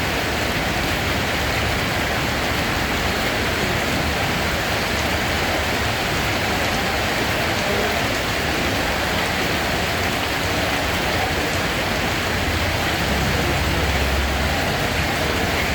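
Steady rain falling, an even hiss with a low rumble underneath that swells briefly near the end.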